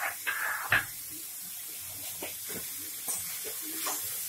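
Grated carrots frying in ghee in a kadhai with a soft, steady hiss, while a steel spoon stirs them, knocking and scraping against the pan; the sharpest knock comes just under a second in.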